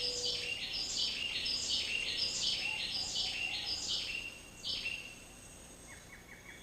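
Rainforest wildlife calling: a buzzy call repeated about every 0.7 s, each note stepping down in pitch, stops about two-thirds of the way through. A fast, even ticking trill begins near the end.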